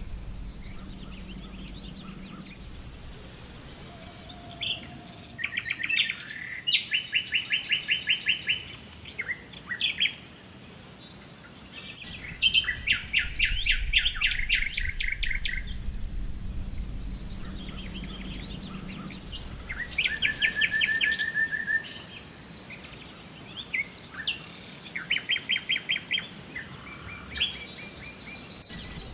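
Songbirds singing, with rapid trilled phrases of quick repeated notes every few seconds and short pauses between them.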